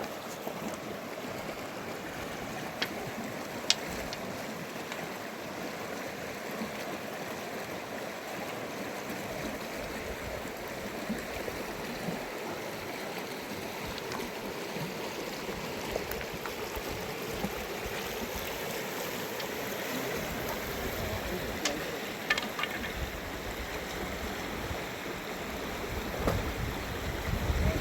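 Steady rush of flowing river water, with a few sharp clicks.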